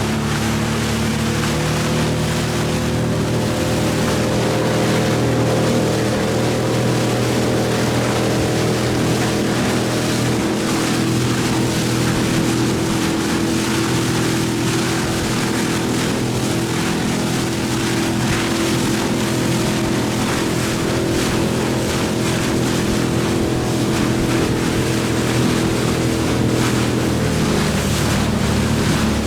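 Motorboat engine running steadily, with wind and water noise over it; the engine note changes near the end.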